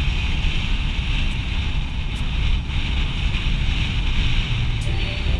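Heavy wind buffeting the microphone of a rider on a 125cc motorcycle at speed: a loud, steady rumble with hiss.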